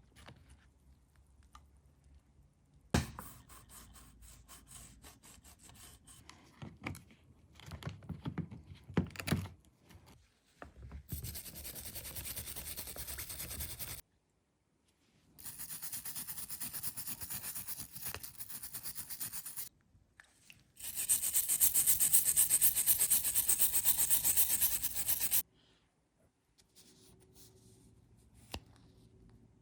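Rusty steel revolver parts being scrubbed clean: three stretches of steady scraping and rubbing of a few seconds each, the last one the loudest. In the first ten seconds, clicks and knocks as the parts are handled.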